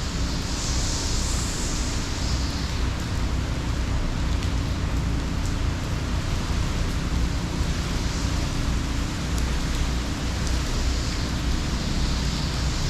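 Hurricane-force wind and heavy rain: a steady hiss with a low rumble of wind on the microphone, swelling in gusts about a second in and again near the end.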